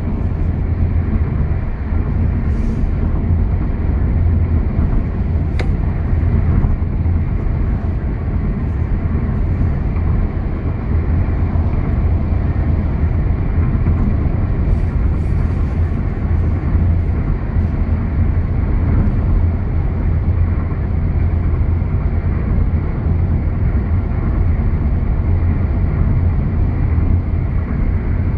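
Car driving along a highway: a steady low rumble of road and engine noise that holds even throughout.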